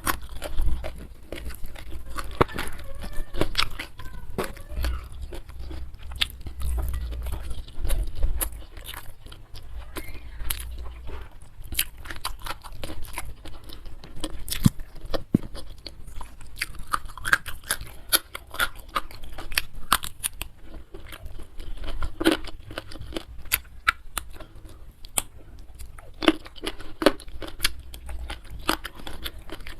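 Close-miked chewing and crunching of food, a dense, irregular run of small crisp clicks and crackles.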